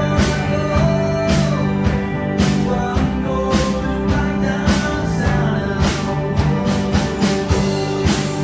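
Rock band playing an instrumental passage: electric guitar and bass over a drum kit keeping a steady beat.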